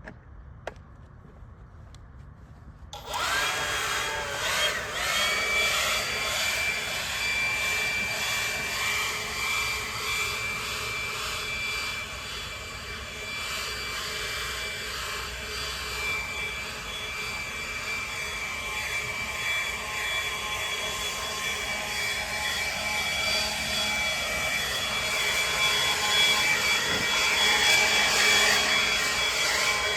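Leaf blower switched on about three seconds in, then running steadily with a high whine, getting louder toward the end.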